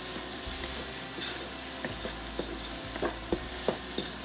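Spice masala of onion, ginger-garlic paste and ground spices frying in hot mustard oil in a wok: a steady sizzle. A wooden spatula stirs it, with several short scrapes and taps against the pan, most of them in the second half.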